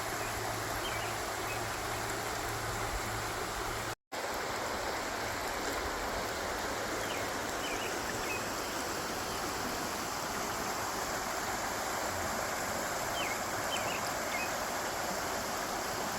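Steady rushing of flowing water, with a few faint, short, high chirps. A low hum runs under the first four seconds, which end in a brief dropout.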